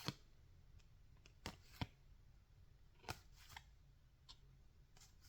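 Faint flicks and taps of baseball trading cards being handled and slid through a pack, about half a dozen short clicks a second or so apart over low room tone.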